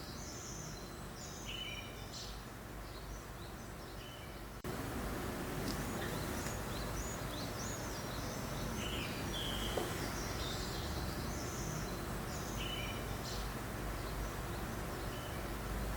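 Small songbirds chirping and twittering in short scattered calls over a steady hiss of breeze. About five seconds in, the background hiss steps up suddenly and stays louder.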